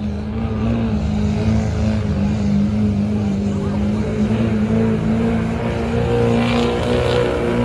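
Diesel truck engine running hard at high, nearly steady revs under heavy load as it drags a weighted pulling sled.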